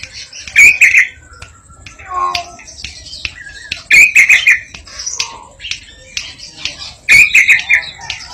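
Koak kikok bird calling loudly, a harsh burst of notes about every three seconds, three times in all, with softer chirps and short whistles between.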